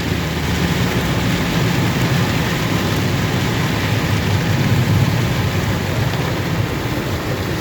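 Heavy rain pouring down on a car, heard from inside the cabin through windows cracked open behind side-window deflectors, over the car's steady low hum.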